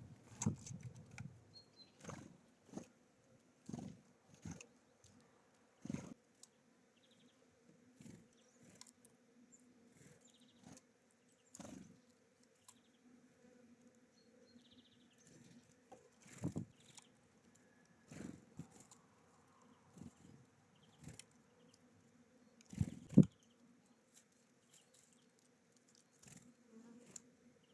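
Irregular taps and knocks, with low thumps, of small birds landing, hopping and pecking seed on a feeder, over a faint steady hum. The loudest pair of knocks comes about 23 seconds in.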